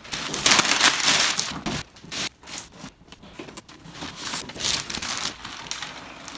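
Packaging of a boxed RC truck being opened and handled: irregular crinkling and tearing, loudest in the first couple of seconds, then quieter rustling.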